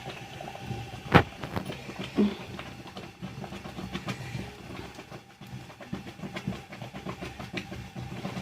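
Cooking over a wood fire: a pot of stinging-nettle curry being stirred and mashed, with irregular small clicks and crackles, a sharp knock about a second in and a smaller one about two seconds in.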